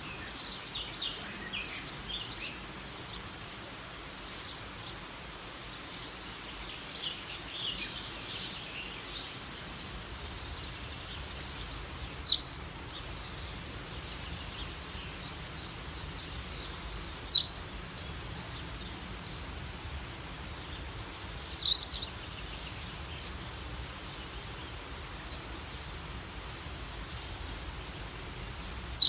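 Birds calling over a steady outdoor background hiss: a scatter of soft, high chirps through the first ten seconds, then a single bird's loud, sharp, downward-sweeping call repeated four times, about four to five seconds apart.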